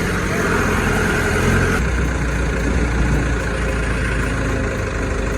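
Heavy machinery engine running steadily with a low drone.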